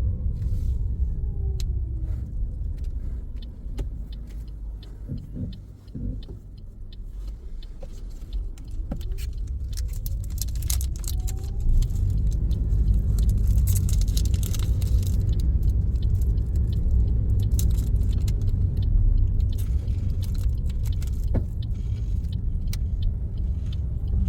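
Engine and road rumble heard inside a moving car's cabin. The car slows almost to a stop, then pulls away, the engine note rising as it picks up speed, with a light rattle over the rumble.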